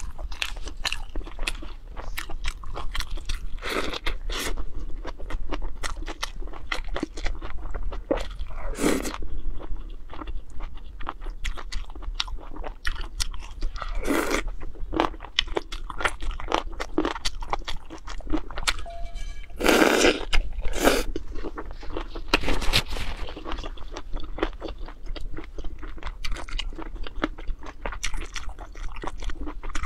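Close-miked mouth sounds of a person eating: steady chewing and crunching with many small wet clicks, and a few louder bursts spread through.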